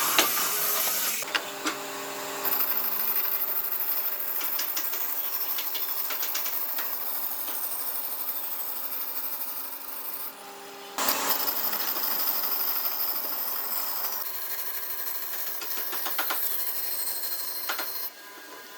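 Woodworking shop tool sounds in several abruptly cut segments, mostly a small power tool running steadily, with scattered clicks.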